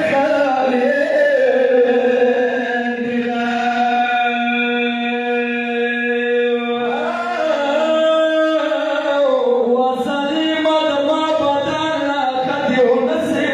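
A man chanting a slow, melodic religious mourning recitation in long held notes that bend gently in pitch, pausing for breath about every three to six seconds.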